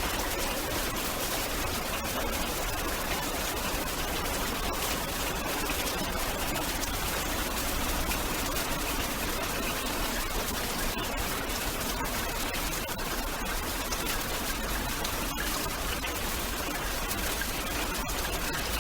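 Steady rain falling: an even hiss at a constant level, with a few faint drop ticks.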